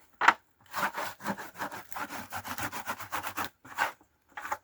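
Wood scraping and rubbing in quick repeated strokes as the empty wooden beehive box is worked open, after a sharp knock just after the start, with a few more scrapes near the end.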